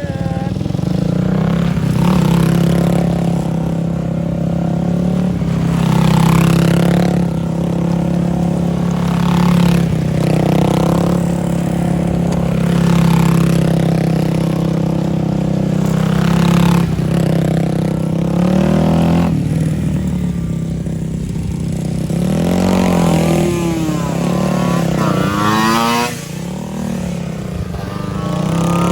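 Motorcycles in junior track practice running on the circuit: a steady engine drone for the first part. In the latter part several engines rise and fall in pitch as bikes rev and pass by.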